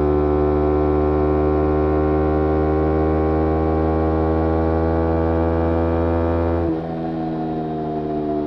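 Kawasaki Ninja 250R parallel-twin engine running through a Graves racing exhaust, holding steady revs that ease slightly downward. About seven seconds in, the sound abruptly drops and thins out, and the pitch keeps sinking slowly.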